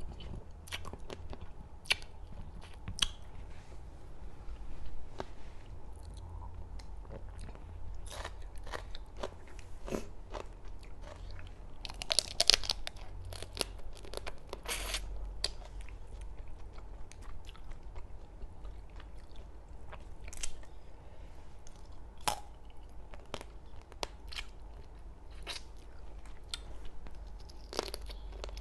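Close-miked eating: crab shell cracking and crunching between the teeth, with sharp cracks scattered throughout and a dense cluster about twelve seconds in, between stretches of chewing.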